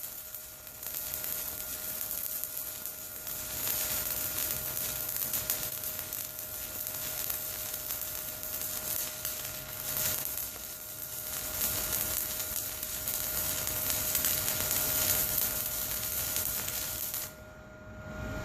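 Stick-welding arc burning a Lincoln Excalibur 7018 rod on DC electrode positive at about 66 amps: a steady crackling sizzle that cuts off about a second before the end as the arc is broken.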